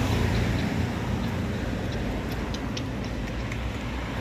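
Steady low rumble of outdoor street and traffic noise, with a few faint light clicks in the middle.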